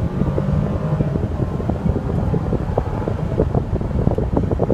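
Cabin noise inside a 2014 Mercedes-Benz SL550 roadster: a steady low rumble with a fan-like rush and many scattered light knocks.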